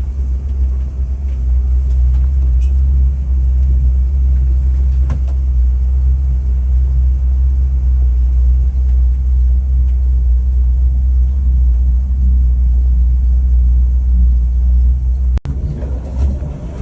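Engine of a 1987 Sea Ray 39 ft cruiser running steadily during a motor test: a loud, deep rumble. About fifteen seconds in, the sound breaks off abruptly and carries on with a slightly changed character.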